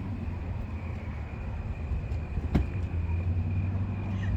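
Steady low drone of a running vehicle, with one short sharp click about two and a half seconds in.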